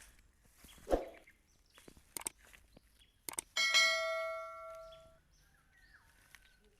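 A bright metallic ding that rings out and fades over about a second and a half, after a few short clicks.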